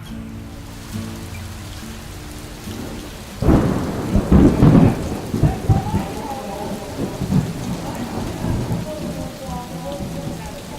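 Steady rain with a sudden clap of thunder about three and a half seconds in, rolling on as a rumble that fades unevenly over the following seconds.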